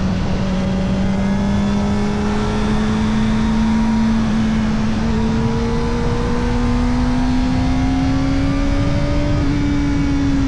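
Kawasaki Ninja ZX-4RR's 399 cc inline-four running through an Arrow titanium race exhaust with its dB killer fitted, pulling at steady part throttle. The revs climb slowly and evenly for most of the stretch, then ease off slightly near the end, over a constant rush of wind and road noise.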